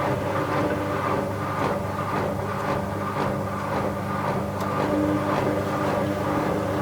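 Bauknecht WA 7778 W top-loading washing machine running with a towel load: a steady motor hum with a soft swishing knock about twice a second as the drum turns. The machine's drum bearing was already beginning to fail.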